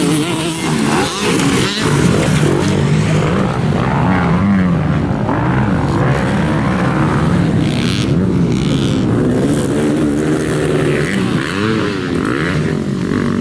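Several motocross dirt bikes racing, their engines revving up and down as they throttle through turns and over jumps, with more than one engine heard at once.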